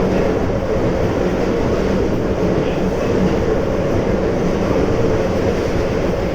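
Keisei 3400 series electric train running steadily, heard from inside the car: a continuous rolling and motor noise.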